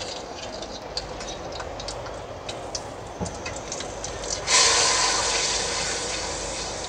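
Ginger-garlic paste frying in hot oil in a pan: scattered pops and crackles, then about four and a half seconds in a sudden loud sizzle as the paste is spread through the oil with a spatula, slowly dying down.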